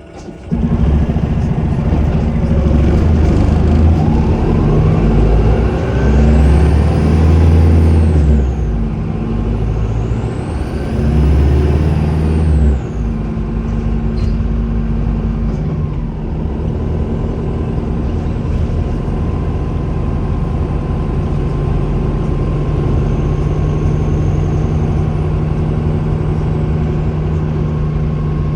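Volvo B5LH hybrid bus's diesel engine cutting in suddenly and pulling hard, with the turbocharger's high whistle rising and falling twice as the bus accelerates. Then the engine settles to a steadier run with a faint whistle still present.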